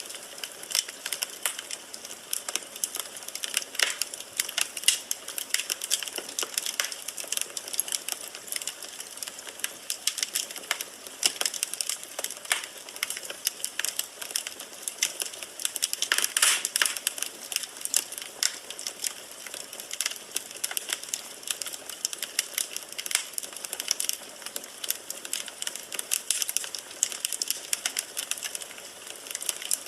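Burning firewood in a fireplace crackling and popping irregularly over a steady hiss, with a louder burst of pops about halfway through.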